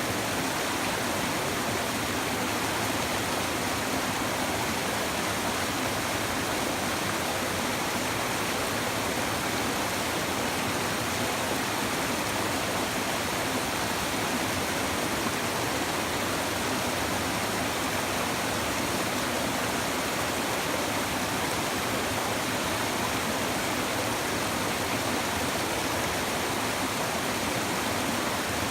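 Small river or stream babbling over stones, a steady, even rush of water.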